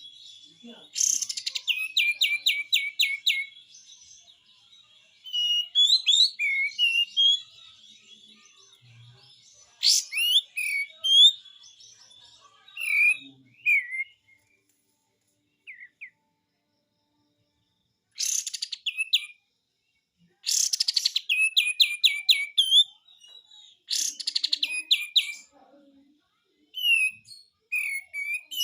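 Kapas tembak bulbul singing its 'besetan' song in repeated bursts of rapid strokes, about four a second, broken by short whistled notes. There is a pause of a few seconds midway.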